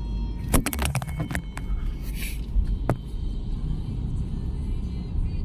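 Steady low rumble of a car on the move, with a quick run of sharp clicks about half a second in, a short hiss around two seconds, and one more click near three seconds.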